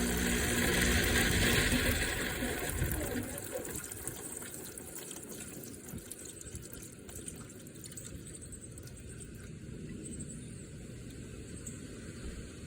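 Electric fan running just after being switched on: a motor hum with a rush of air. The hum fades away after about three seconds, leaving a softer steady whoosh.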